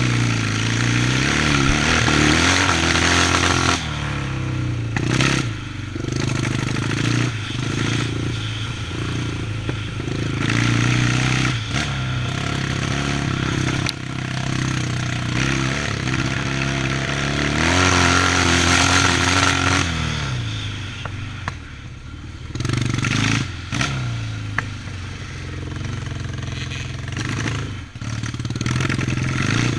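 Yamaha 650 vintage motocross bike's engine under throttle, revving up and down. Revs climb in the first few seconds, drop around four seconds in, build again to a peak near eighteen seconds, fall away, and pick up again near the end.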